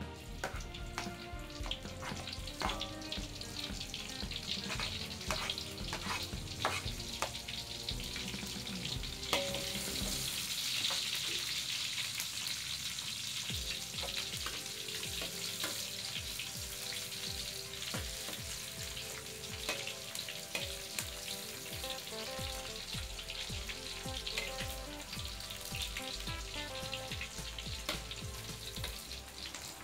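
Chopped ingredients sizzling in hot oil in a wok, stirred with a spatula that clicks and scrapes against the pan. The sizzle swells louder about ten seconds in. Background music plays throughout.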